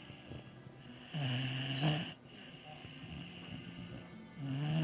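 Boxer dog snoring loudly: one snore about a second in lasting under a second, then quieter breathing, then the next snore starting near the end.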